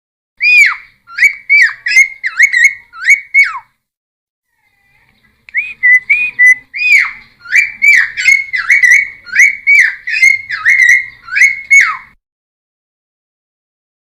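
A cucak timor (helmeted friarbird) singing loud, rich whistled notes, each ending in a falling slur, repeated quickly in two long bursts of song with a short pause between.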